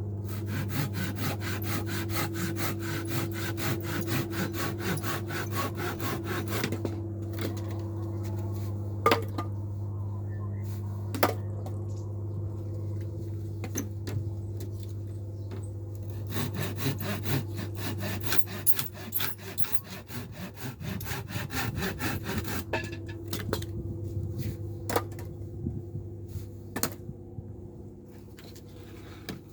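Saw cutting through scrap wood in quick, even strokes, stopping for several seconds where a few knocks of wood are heard, then sawing again and ending in scattered knocks. A steady low hum runs underneath.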